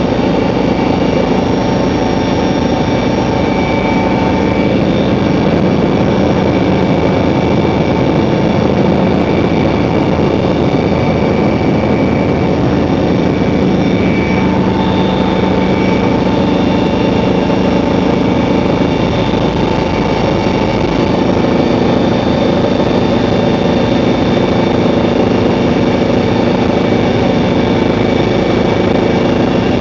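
Helicopter in flight: a loud, steady turbine whine over the drone of the rotor, with a few high whine tones that shift slightly in pitch partway through.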